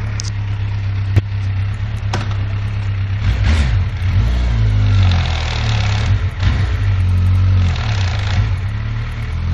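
Yamaha FJ1200's air-cooled inline-four engine idling, then revved up and back down three times from about three seconds in, with a sharp click about a second in. This is the engine whose owner reports a rattle under load.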